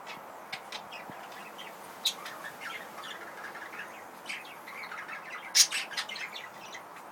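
Budgerigars chirping, many short quick calls over one another, with one loud sharp squawk about five and a half seconds in.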